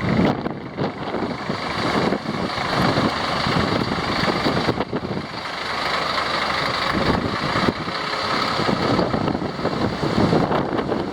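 Strong gusting wind buffeting the microphone, mixed with the rush of street traffic.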